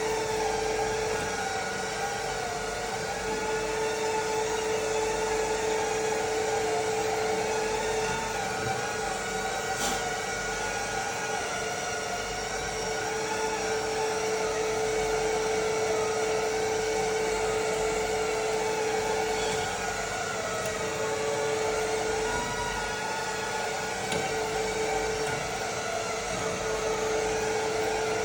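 Electric drill running continuously, its pitch wavering as it bores small holes in a Honda B18C clutch cover to remove about 2.5 grams of weight from the heavy side for dynamic balancing.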